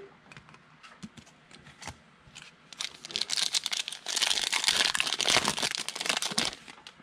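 A foil trading-card pack being torn open and its wrapper crinkled: scattered small clicks and rustles, then from about three seconds in, a few seconds of dense crackling.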